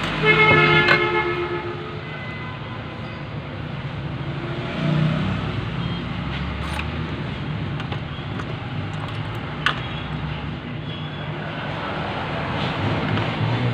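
A horn sounds once, about a second long, near the start, over a steady low rumble like passing traffic. A few sharp clicks come later.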